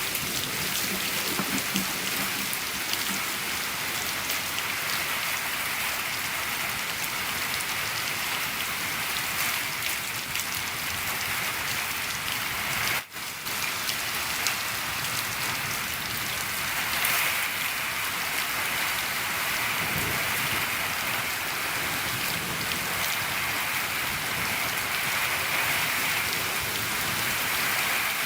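Steady rain falling on a shed, heard from inside. The sound drops out for an instant about thirteen seconds in.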